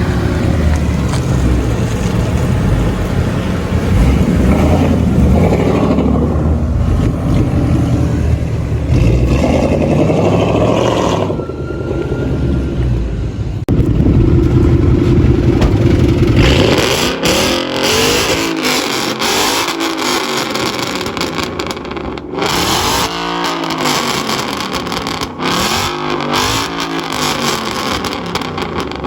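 Ford Mustang Shelby GT500's V8 through a straight-piped Akrapovič exhaust, loud and deep for the first half. Past the middle it is revved again and again, each blip rising and falling in pitch every two to three seconds.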